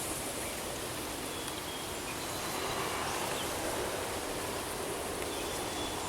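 Steady outdoor summer ambience: a continuous hiss with a high, steady insect drone over it and a few faint, short high chirps.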